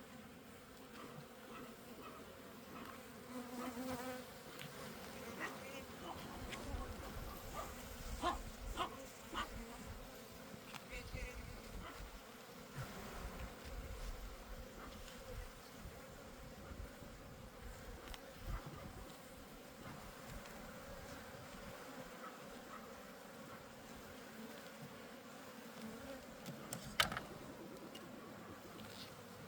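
Honeybees buzzing steadily around an opened hive, with scattered light clicks and knocks and one sharp click near the end.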